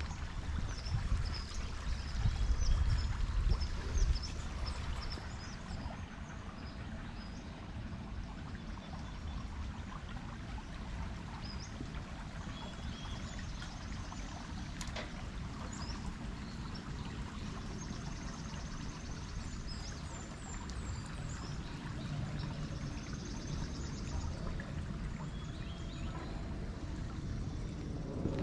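Small birds chirping and trilling over a steady rushing hiss. A low rumble runs through the first few seconds, then fades.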